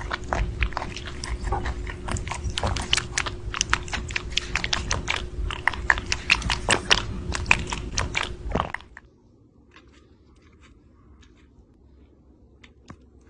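A pet chewing and crunching, with rapid clicky bites that stop abruptly about nine seconds in, followed by faint scattered clicks.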